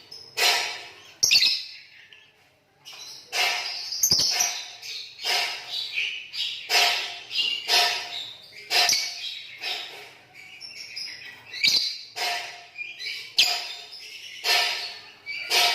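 Green lovebirds chattering and singing: a run of short, harsh, shrill chirps, about two a second, with a brief pause about two seconds in.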